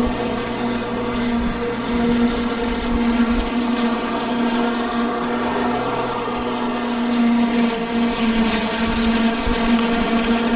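Ozito PXC 36V cordless battery lawn mower running while mowing grass, its electric motor and spinning blade giving a steady whine.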